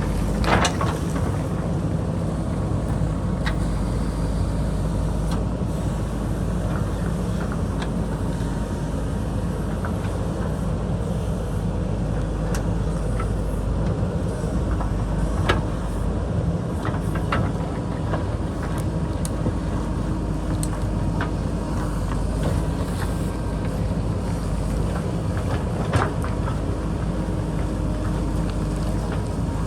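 JCB backhoe loader's diesel engine running steadily while it digs, with a few sharp knocks and clanks scattered through.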